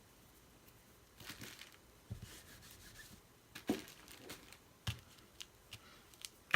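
Small paper scraps rustling and crinkling as they are picked up and handled, with a few short, sharp clicks scattered through.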